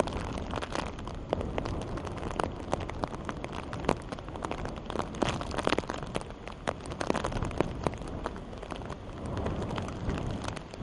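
Rain falling steadily, with many sharp drop hits close by over a low rumble.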